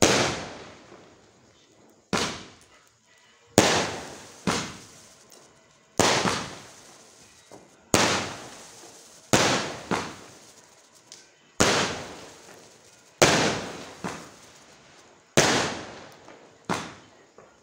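Aerial firework shells bursting one after another: about a dozen sharp bangs, roughly one every one and a half seconds, each fading away in an echoing tail.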